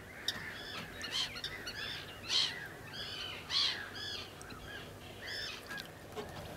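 Birds calling in a quick run of short notes, each rising then falling in pitch, with two louder calls about two and a half and three and a half seconds in.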